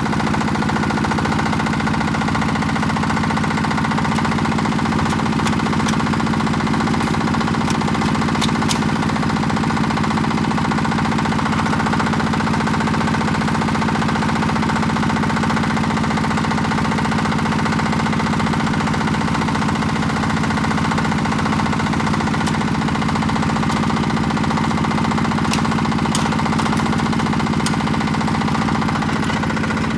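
Yanmar YA80 hand tractor's single-cylinder NFD8 diesel engine running steadily at a constant speed.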